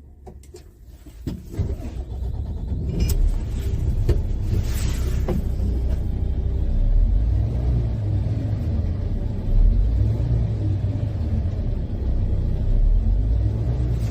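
Heavy truck diesel engine running with a deep, steady rumble: the Ford 4142P concrete pump truck's 420 hp engine. It comes in about a second and a half in and then holds steady, with a slight rise and fall in pitch.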